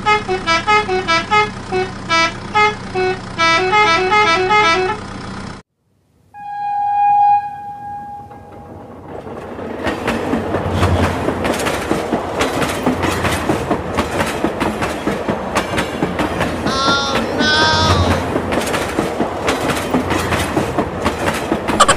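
Battery-powered toy dump truck playing a beeping electronic tune over a steady motor hum, which cuts off suddenly about five seconds in. A single toy horn toot follows, then a battery-powered toy train runs with a dense rattling clatter and brief warbling electronic sound effects.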